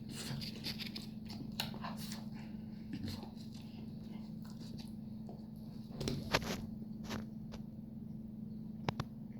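Chewing and biting into a corn dog: short crunchy, crackly clicks from the mouth, in clusters near the start and about six seconds in, over a steady low hum.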